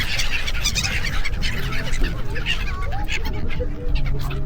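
Gulls calling repeatedly in short, harsh cries over a busy, noisy background.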